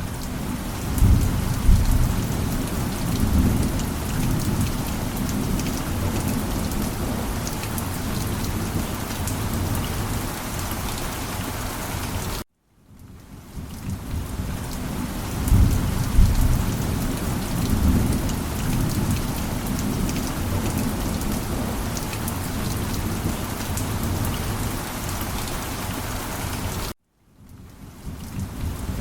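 Steady rain with low rolling thunder rumbles, which swell about a second in and again about halfway. The sound cuts out abruptly twice, each time fading back in.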